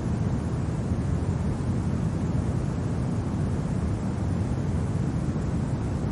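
Steady low rumble of winter wind, even and unbroken, with no gusts standing out.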